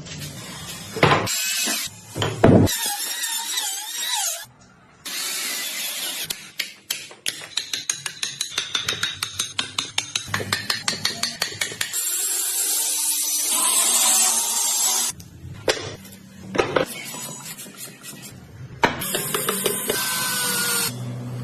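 Woodworking power tools cutting into wood in a series of short segments: bursts of power-tool noise, a run of rapid hand strokes at about four a second in the middle, and then a longer stretch of steady power-tool noise.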